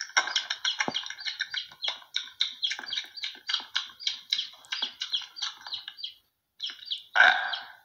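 Rapid string of short, high bird-like chirps, several a second, pausing briefly about six seconds in before a louder, fuller call near the end.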